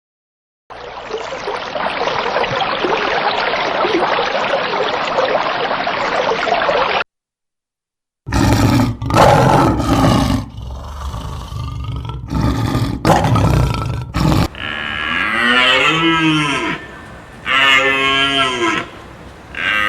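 A steady hissing noise for several seconds, which cuts off into a second of silence. Then cattle start calling: loud, low bellows, followed by several long moos that rise and fall in pitch.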